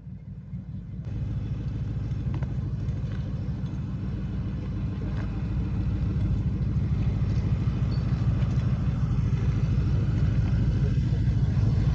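Ford Mustang's engine running with road noise, stepping up in level about a second in and then growing steadily louder as the car accelerates.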